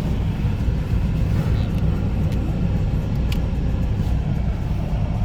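Steady low rumble of a car's road and engine noise heard from inside the cabin while driving, with two faint ticks about a second apart midway through.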